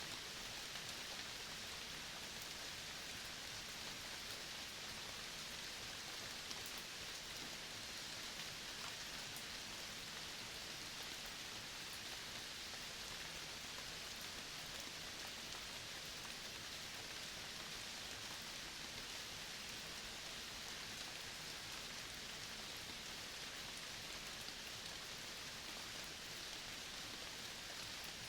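Steady, even hiss of rain falling in a forest, unchanging throughout.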